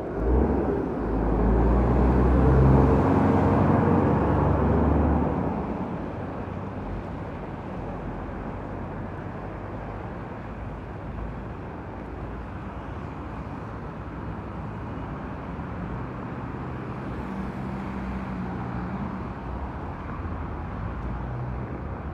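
A motor vehicle's engine running close by for about the first five seconds, then fading. After that there is a steady wash of traffic and rain noise.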